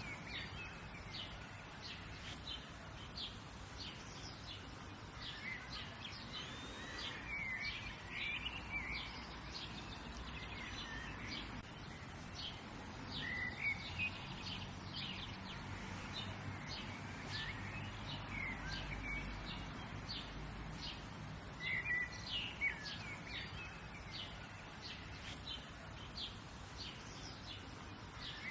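Several songbirds chirping and singing, with many short chirps and whistled phrases overlapping, over a steady low background hum.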